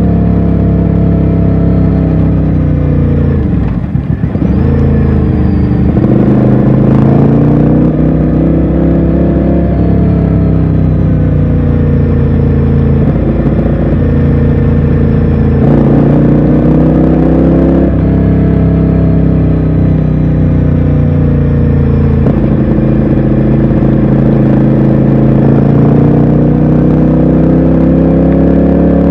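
Ducati Scrambler's air-cooled L-twin engine heard from the saddle while riding. The engine note falls sharply about four seconds in as the bike slows, then rises and drops again several times as it accelerates through the gears.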